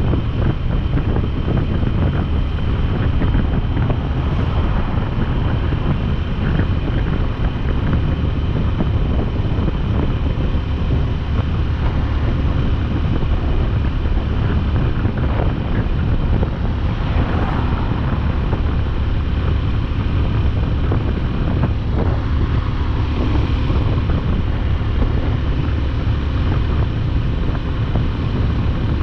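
Wind rushing over the microphone of a moving motorcycle, with the engine's steady running underneath; an unbroken low rumble.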